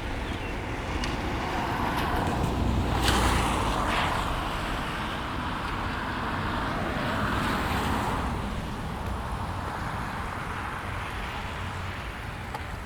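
Tyres hissing on a wet street as cars pass, swelling and fading twice, over steady rainfall.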